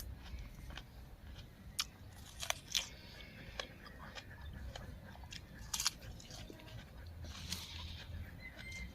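Close-up crunchy chewing and biting of raw vegetables, with scattered sharp crunches through the stretch.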